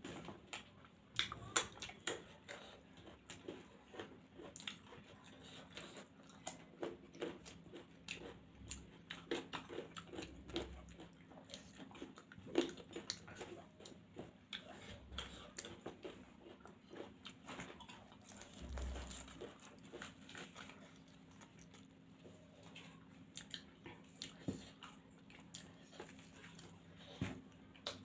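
Close-miked eating: two people chewing spicy noodles and spinach puri, with many small, irregular wet clicks and smacks of mouths and forks, a few dull low thumps, and a faint steady hum underneath.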